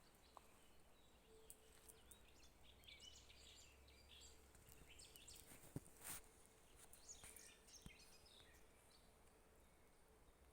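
Faint birdsong: scattered short chirps and calls of small songbirds, with a couple of sharp clicks about six seconds in.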